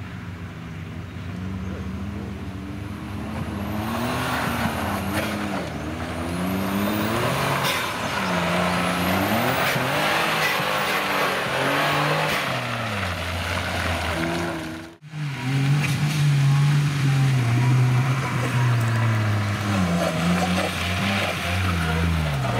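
Suzuki Jimny 4x4's engine revving up and falling back again and again while driven hard off-road. About fifteen seconds in, the sound breaks off for an instant, then the engine runs louder and steadier at high revs.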